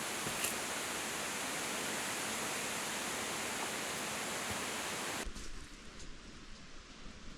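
A steady rush of running water that cuts off abruptly about five seconds in, leaving quieter rustling with a few light clicks.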